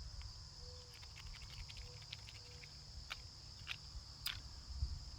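Steady high-pitched chorus of crickets, with a scattering of faint sharp ticks and taps.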